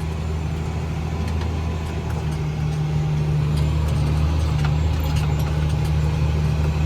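Case IH Magnum 340 AFS tractor's diesel engine running steadily as a low drone heard inside the cab. It grows somewhat louder a little over two seconds in, with a few faint ticks over it.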